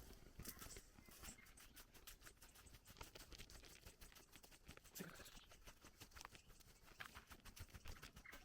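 Near silence with faint, irregular light ticking and patter throughout.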